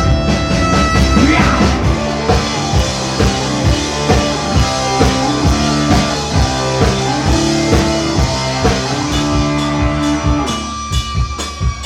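Rock band playing live, an instrumental intro: drum kit keeping an even beat under guitar and bass. About ten and a half seconds in the full band drops back, leaving a few held notes.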